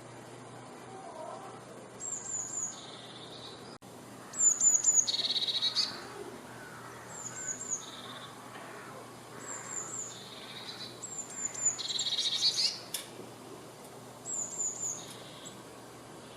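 A tit singing: about six repeated phrases, each a quick run of three high, falling notes followed by a lower, buzzy trill.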